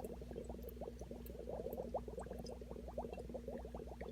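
Aquarium air bubbles rising steadily through water in a small algae-culture tank, aerating it to keep the algae mixed: many quick rising blips a second over a steady low hum.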